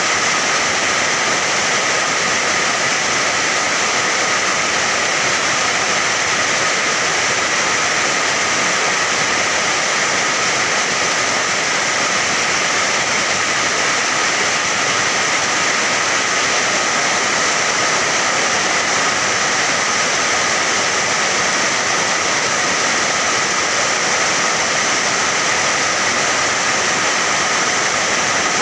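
Steady heavy rain: an even, unbroken hiss of water with no single drops, thunder or other events standing out.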